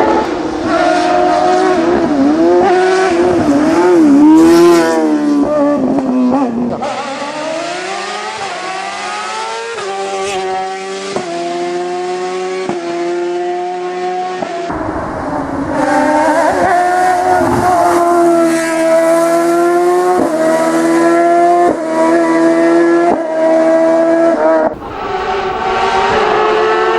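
Fiat 500 hillclimb prototype's BMW S1000RR inline-four superbike engine revving hard up a hill course, pitch climbing and dropping again and again as it shifts through the gears, with a faint tyre squeal.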